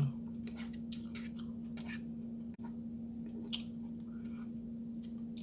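Close-up mouth sounds of a person chewing food, with irregular short wet clicks and smacks, over a steady low electrical hum.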